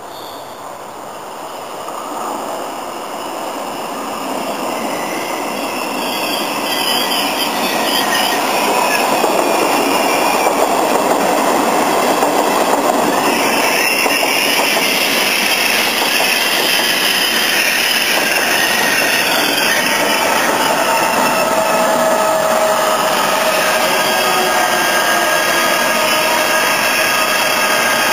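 Trenitalia regional passenger train with an E.464 electric locomotive rolling into the station, growing louder over the first several seconds as it approaches and then a steady rumble of wheels on rail as the coaches run past. Thin high squealing from the wheels and brakes joins in over the last several seconds as it slows.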